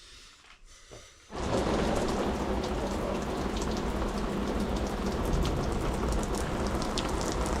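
Rain falling steadily, a dense hiss full of fine drop ticks, starting abruptly about a second in.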